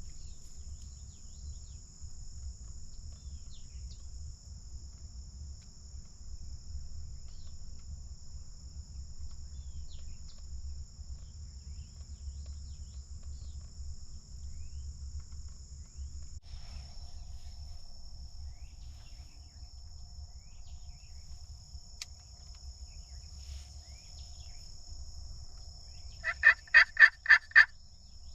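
Turkey yelping: a quick run of six loud yelps near the end, over a steady high drone of insects.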